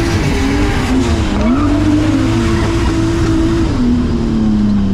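Drift car's 2JZ straight-six, heard from inside the cabin, revving hard with its note rising and falling as the throttle is worked through a drift, then dropping lower near the end, over the noise of the rear tyres skidding.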